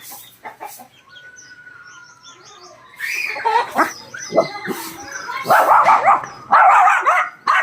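Pomeranian dog vocalizing in a rapid run of short yaps and whines. It starts about three seconds in and is loudest near the end, after faint high chirps.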